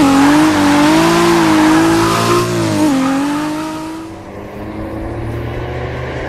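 Sports car engine revving, its pitch rising and falling several times with a hiss over it, dubbed onto a stop-motion toy car. It fades out about four seconds in, and a low steady drone takes over.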